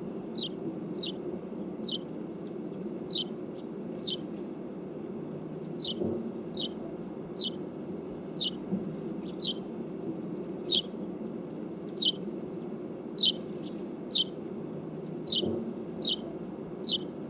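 A small bird calling over and over with short, sharp, high single chirps, roughly one a second, over a steady low background rumble.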